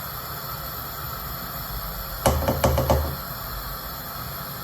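A quick run of about five sharp knocks, packed into less than a second about halfway through, over a steady hiss.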